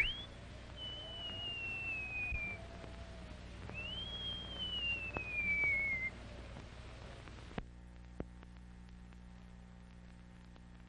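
Whistle-like pure tones: a quick rising sweep, then two long tones that each slide slowly down in pitch, over a fainter wavering lower tone. About three-quarters of the way through, the sound cuts off abruptly, leaving a steady hum and a couple of clicks from the old film soundtrack.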